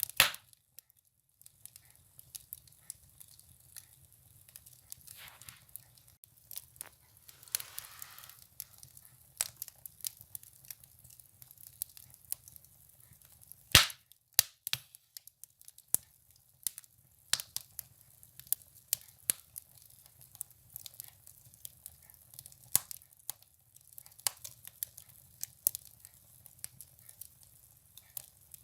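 Firewood burning in a wood stove, crackling with irregular sharp pops, one louder pop about halfway through, and a brief hiss about a quarter of the way in.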